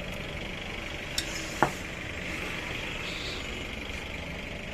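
Steady background engine and traffic noise, with two sharp clicks about a second and a half in, as of metal parts being handled.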